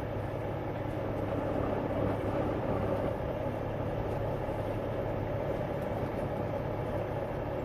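Semi truck's diesel engine running steadily at low revs, heard from inside the cab while the truck creeps forward into the wash line.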